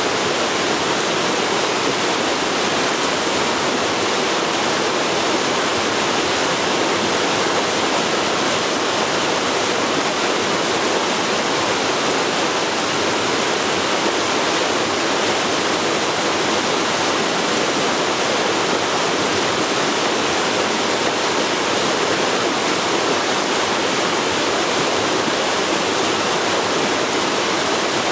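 Forest river flowing, a steady rushing of water with no breaks or changes.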